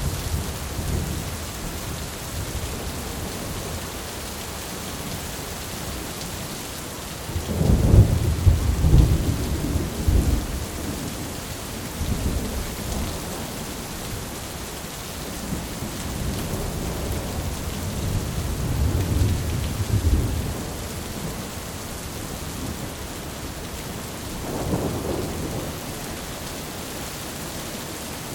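Thunderstorm: steady rain hiss with rolling rumbles of thunder, the loudest from about 7 to 10 seconds in, further rolls around 16 to 20 seconds and a smaller one near the end.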